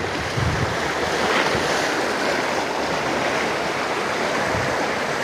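Sea waves washing against shore rocks, a steady rushing wash, with wind buffeting the microphone about half a second in.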